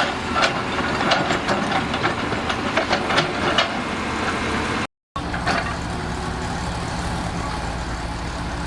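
Heavy diesel engine running with a series of sharp, irregular knocks over it for the first few seconds; after a brief dropout about halfway through, the engine runs on alone at a steady idle.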